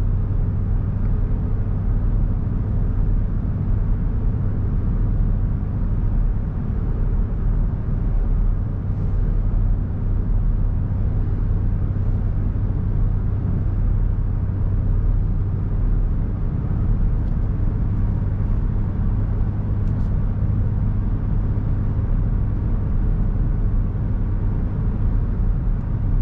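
Steady in-cab driving noise of a 2021 Ford F-150 Raptor cruising on 37-inch tires: a constant low drone from the road, tyres and drivetrain. This is its normal daily-driving noise level, with the air conditioning on low.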